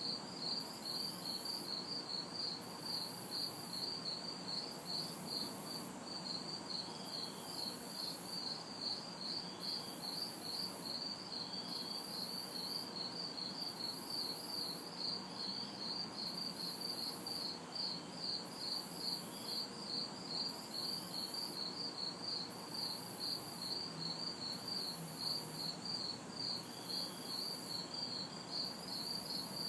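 A chorus of crickets chirping in a rapid, even pulse, with a higher insect buzz switching on and off about once a second, over a faint, steady hum of distant city traffic.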